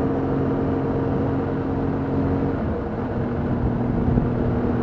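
Vehicle engine and road noise inside a moving car, a steady rumble with an engine hum that drops slightly in pitch about two and a half seconds in.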